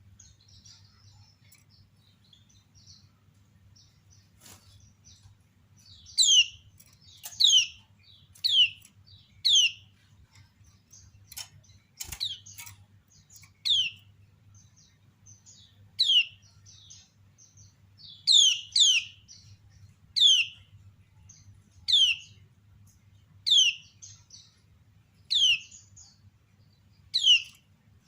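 Female kecial kuning (white-eye) giving its 'ciak' call, a female call used to provoke other kecial into singing. After some faint chirping, loud short calls each sweep sharply downward and repeat every one and a half to two seconds, over a faint steady low hum.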